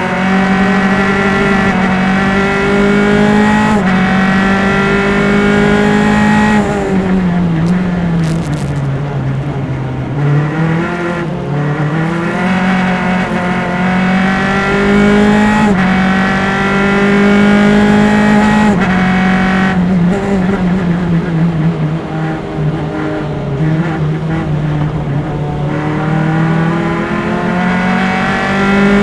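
Single-seater race car engine heard onboard, pulling hard up through the gears with sharp upshifts. It drops in pitch in steps twice as the driver brakes and downshifts for corners, then accelerates again.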